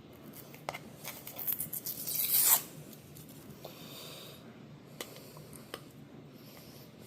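Protective plastic film being peeled off an acrylic disc: a run of crackles builds to a loud tearing rip that stops sharply about two and a half seconds in, followed by a few faint clicks.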